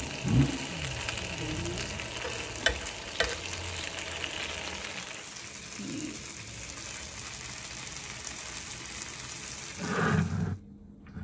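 Chicken tikka pieces sizzling steadily on a hot grill pan on a low gas flame, with two sharp clicks a half second apart a few seconds in. The sizzling cuts off suddenly near the end.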